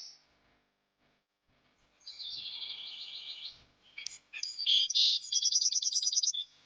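Small birds chirping, with no sound at first: a run of rapid high trills about two seconds in, then louder, quick repeated chirps from about four seconds in that stop shortly before the end.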